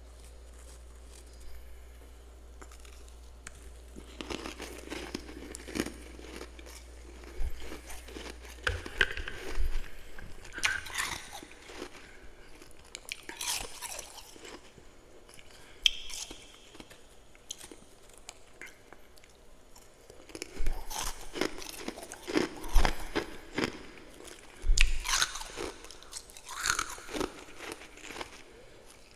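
A person biting and chewing mouthfuls of frost, in irregular runs of crisp crunches that start about four seconds in, pause for a few seconds midway, and then resume.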